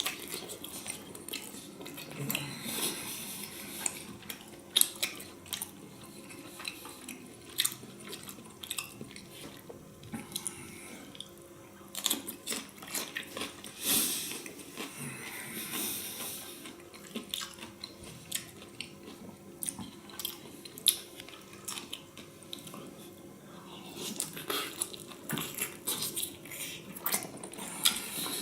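Close-up chewing of sauced beef tongue: wet mouth smacks and clicks coming irregularly, some louder than others.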